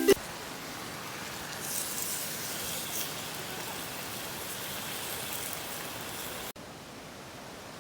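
Steady outdoor hiss with a few faint ticks. It drops abruptly to a slightly quieter hiss about six and a half seconds in.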